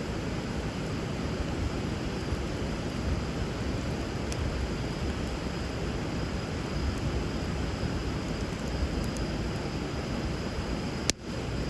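Steady rush of flowing river water under a burning bonfire, with a few faint crackles from the fire and one sharp pop near the end.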